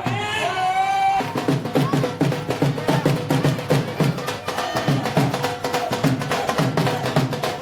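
Rapid, busy drumming with a driving beat, taking over about a second in after a long held note, likely a voice, fades out.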